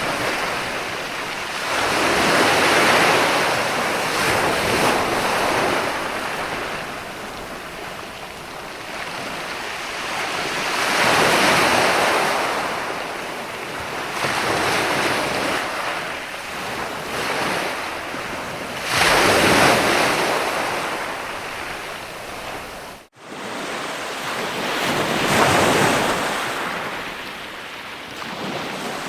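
Ocean surf: waves breaking and washing in, swelling and ebbing four times, each surge a few seconds long. The sound cuts out for an instant once, about three-quarters of the way through.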